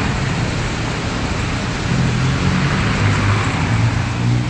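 Road traffic at a junction: a steady rush of passing vehicles, with a low engine hum from a nearby vehicle growing stronger about two seconds in.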